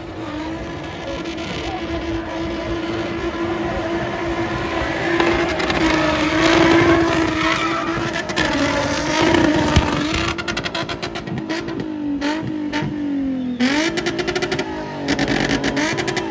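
Car engine holding steady revs and growing louder, then near the end its pitch drops and climbs again as it pulls harder, with a rapid crackle over it.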